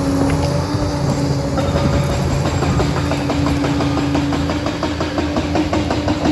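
Liebherr 746 crawler dozer working: its diesel engine runs with a steady hum. From about two seconds in, the steel tracks clatter in a fast, even rhythm.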